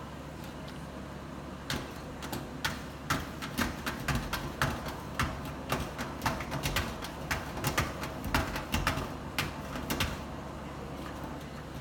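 A Bernese mountain dog puppy's paws and claws clicking and tapping in a rapid, irregular run, starting about two seconds in and stopping near the end.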